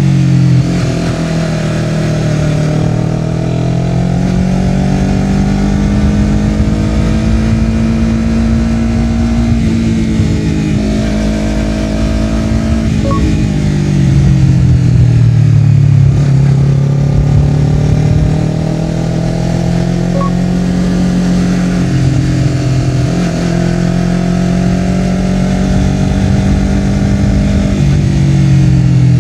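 Honda CBR250RR's parallel-twin engine through a Yoshimura R-11 slip-on exhaust, under way: the exhaust note rises and falls several times as the rider opens and closes the throttle, with a few sudden drops and jumps in pitch. Low wind and road rumble run underneath.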